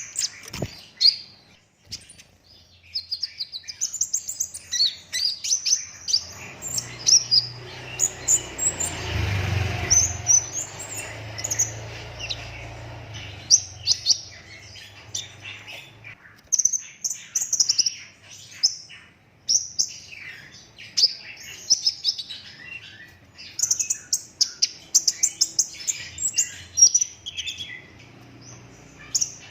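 Sunbird singing continuously: dense, rapid high-pitched chirps and twittering trills in quick succession. A low rumble runs underneath from about six to fourteen seconds in.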